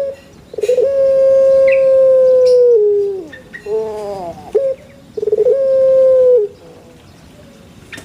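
A rooster crowing twice, each crow a few short rising notes and then one long held note that falls away at its end; quiet from about six and a half seconds in.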